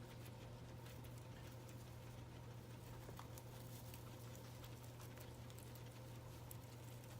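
Guinea pigs chewing and rustling hay: faint, irregular crunching and rustles over a steady low hum.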